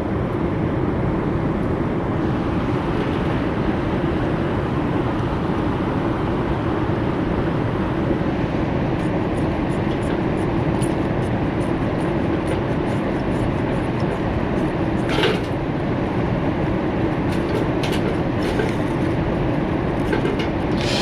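Ferro-rod fire starter scraped again and again, short sharp scrapes throwing sparks onto tinder that does not catch, coming in from about nine seconds in. Under them is a loud steady rushing noise.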